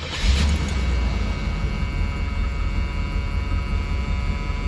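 1979 Hurst/Olds Cutlass's Oldsmobile 350 V8 firing on a warm start, catching at once, then idling with a steady low rumble and a faint steady high whine above it.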